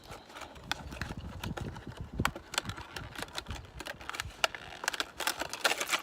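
Plastic lure packaging being worked open by hand: a run of irregular clicks, taps and crackles that come thicker near the end.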